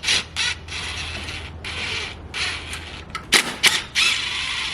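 Hand tools working loose engine intake parts: a run of short rasping, creaking mechanical strokes, with two sharp knocks about three and a half seconds in.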